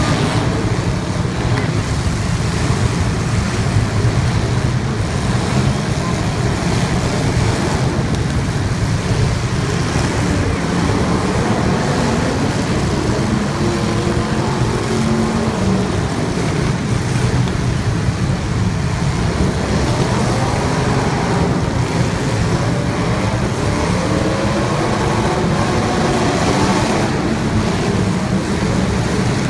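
Racing cars' engines running together at speed, an even, steady drone of engine and road noise.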